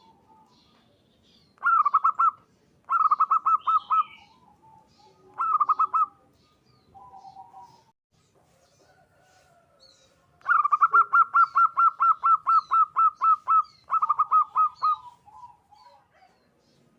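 Zebra dove (perkutut) singing: bouts of rapid staccato cooing notes, about eight a second, with the longest run starting about ten seconds in and lasting over three seconds. Faint high chirps of other small birds sound in the background.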